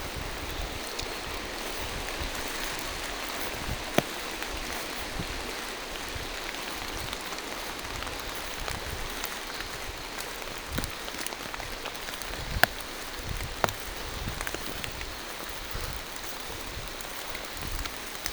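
Steady rain falling through a forest, with a few sharp louder drop taps, the strongest about four seconds in and twice more past the middle.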